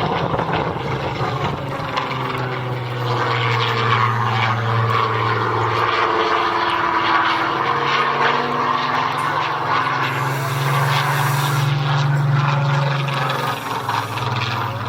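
Piston-engined propeller aircraft flying past, a steady engine drone whose pitch shifts a few times as they move.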